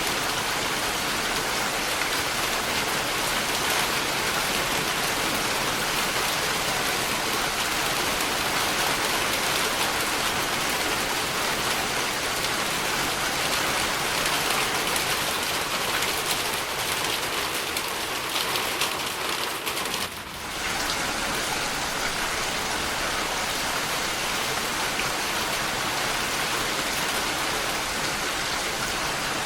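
Steady rainfall, a dense even patter, with a brief dip in level about two-thirds of the way through.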